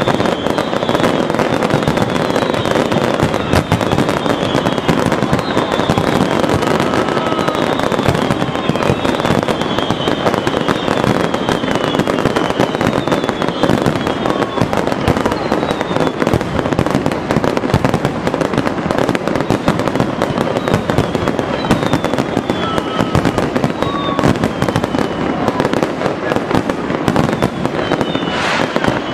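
Many fireworks and firecrackers going off at once in a dense, unbroken crackle of pops and bangs, with a string of short falling whistles over it.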